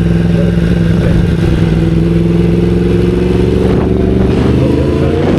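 Vehicle engine running at a steady speed, its pitch holding level and then creeping up slightly in the last second or so.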